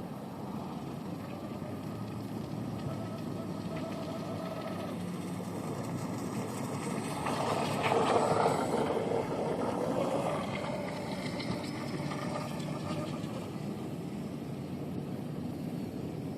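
Electric RC tunnel-hull boat, a Pro Boat Stiletto on its stock 1900kv motor, running across the water. It grows louder as it passes closest about eight seconds in, then fades.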